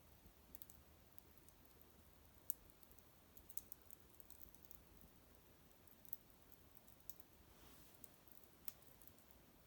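Small fire of dried maple twigs crackling faintly, with sharp pops scattered irregularly over a low hiss.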